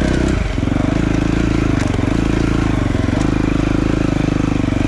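Dirt bike engine running at low revs with a steady pulsing beat; its pitch drops sharply about half a second in, then holds steady.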